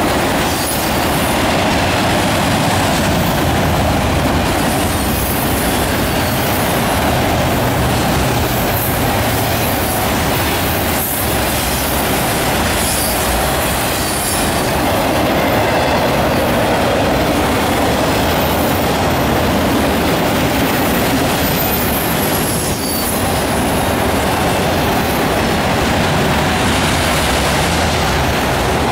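Freight train of enclosed autorack cars rolling past close by: a steady loud rumble of steel wheels on rail, with high-pitched wheel squeal at times.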